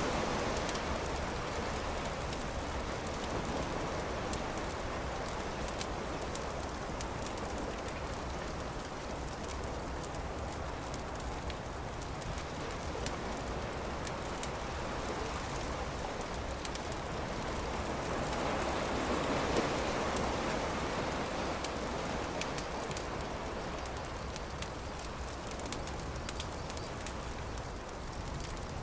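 Campfire crackling with many small sharp pops over a steady rushing wash of surf, which swells up near the start and again about two-thirds of the way through.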